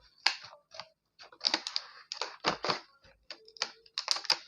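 Scissors cutting open a toy set's plastic packaging: an irregular run of sharp snips and crackles.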